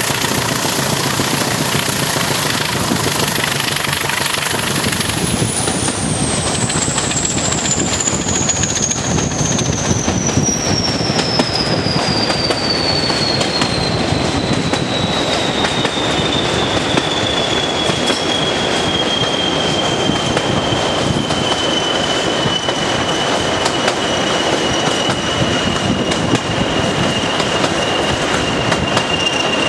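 A train hauled by a pair of Class 20 diesel locomotives running along the line, heard from an open carriage window: a steady, loud rumble and clatter of wheels on rail mixed with the locomotives' English Electric V8 engines. A high whine falls slowly in pitch from about five seconds in, then holds steady.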